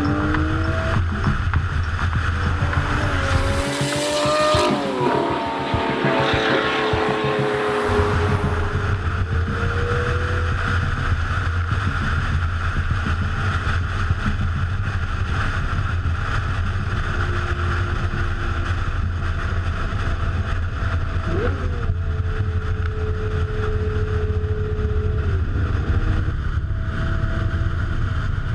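A car under way, its engine note rising and falling with the revs over a steady low drone of driving noise, with a rush of higher noise about four to eight seconds in.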